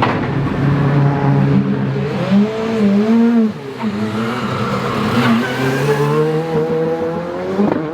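Rally car engine running hard, its revs rising and falling repeatedly as it accelerates and lifts off.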